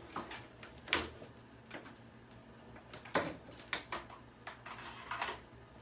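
A few light knocks and clicks from things being handled: one about a second in, then a cluster around three to four seconds in and another near the end, over a faint steady hum.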